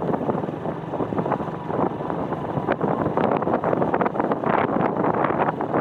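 Wind buffeting the microphone of a moving motorcycle, over the bike's engine and road noise, steady throughout.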